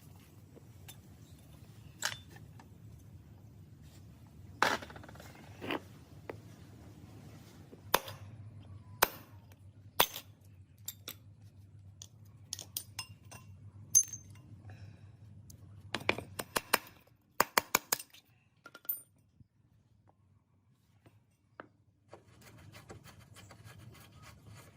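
Scattered metallic clicks and clinks as small metal motorbike parts and tools are handled and set down, with a quick run of clicks about two thirds of the way through. A low steady hum underneath stops at about the same point.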